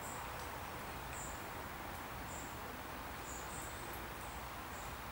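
A small bird repeating short, high-pitched calls about once a second, over a steady low rushing background.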